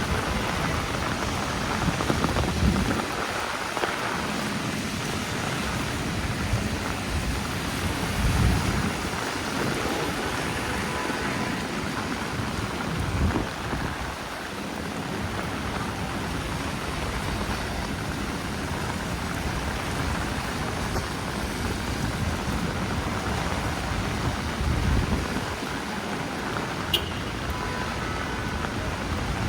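Steady heavy rain falling on a city street, with low rumbles rising and fading now and then.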